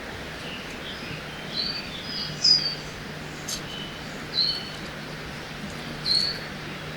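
Forest birds giving short chirps every second or two, the loudest about two and a half seconds in, over a steady rush of river water.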